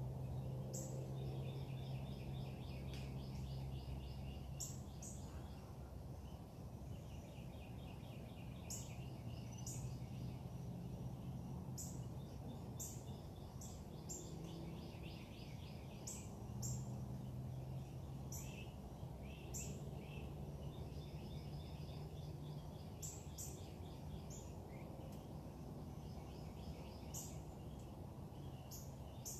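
Backyard birds chirping and trilling: many short high chirps and rapid trills come and go, over a steady low hum.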